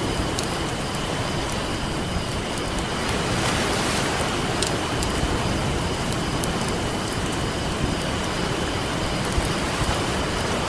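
Ocean surf washing steadily on a beach, with the sharp pops and crackles of a wood campfire scattered through it; the surf swells for a moment about three seconds in.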